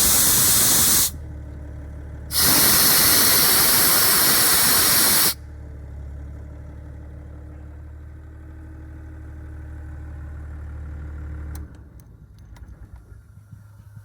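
Airman diesel engine-driven air compressor running, with compressed air blasting out twice in loud hissing rushes, the second lasting about three seconds. Between and after the blasts the diesel engine's steady low hum is heard; it cuts off about twelve seconds in, leaving faint clicks.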